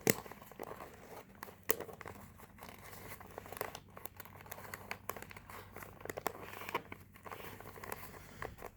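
A sheet of ordinary paper being folded and creased by hand: irregular rustling and crinkling with a few sharp crackles, the sharpest just after the start and again near 2 seconds in.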